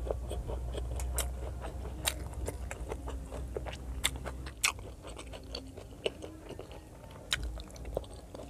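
Close-miked chewing and biting of fried pork belly adobo, with irregular sharp crunches and wet mouth clicks.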